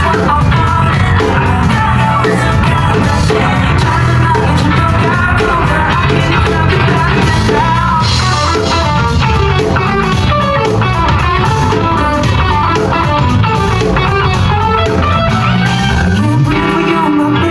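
A rock band playing live, with guitar, bass and a singer, continuous and loud. Near the end a low bass note slides upward.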